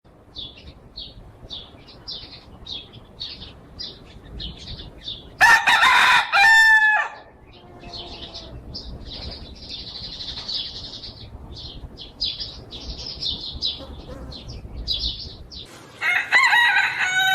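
Rooster crowing twice, once about five seconds in and again near the end, over a steady run of short, high cheeps about two a second.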